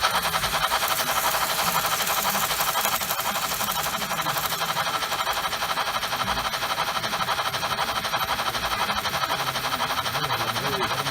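Märklin model train running on the layout's track, a steady fast clatter and whirr.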